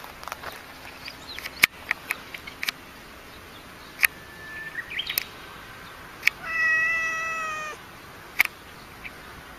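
A cat meows once, a single drawn-out call of just over a second that falls slightly in pitch, about two-thirds of the way through. Scattered sharp clicks and taps come before it.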